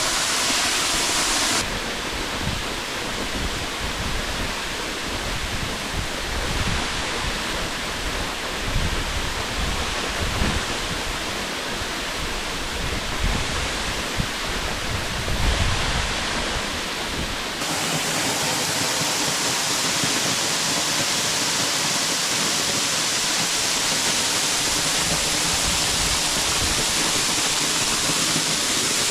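Waterfall pouring over rock ledges, a steady loud rush of water. Its sound changes abruptly about two seconds in and again past the halfway point, with more low rumble in between.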